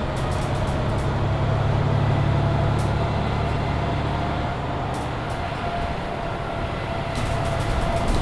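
Mercedes-Benz Citaro C2 Hybrid city bus driving, heard on board: a steady low engine drone with a constant whine from the drivetrain and scattered small rattles. The drone swells about a second in and eases off a few seconds later.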